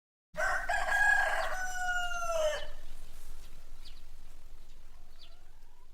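A chicken crowing once: a loud, pitched call that starts in short broken notes, then holds one long note that drops at the end. Two faint short calls follow.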